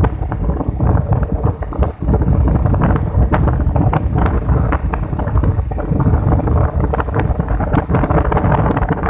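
Wind buffeting the microphone on a moving motorcycle, a loud steady rumble, with frequent short knocks and rattles throughout.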